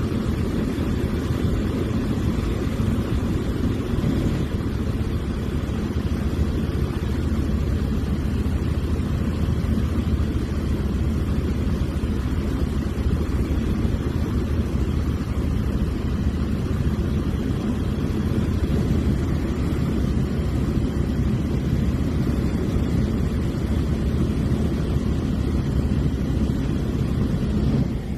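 Small propeller airplane in steady cruise: engine and propeller drone heard from inside the cockpit, even and unchanging.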